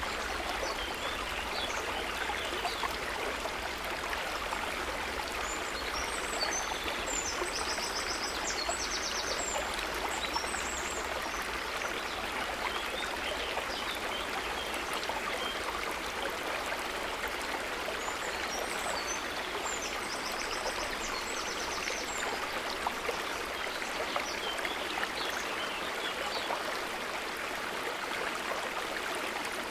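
A river's running water, flowing steadily. Twice, a short run of high chirps sounds above it.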